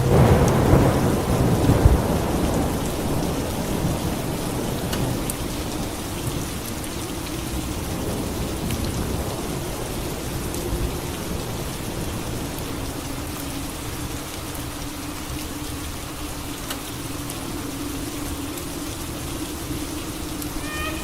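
A thunderclap right at the start, loudest in the first two seconds, then rumbling and fading away over several seconds, over steady rain.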